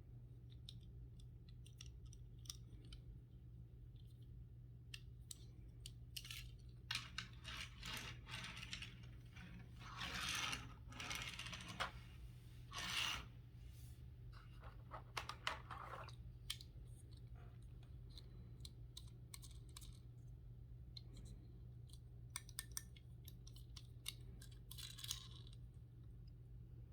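Hands opening toy-car packaging: plastic and cardboard crinkling and tearing in several bursts about a third of the way through, with scattered clicks and taps before and after, over a steady low hum.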